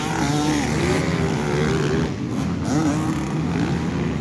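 Several motocross bike engines revving, their pitch rising and falling and overlapping.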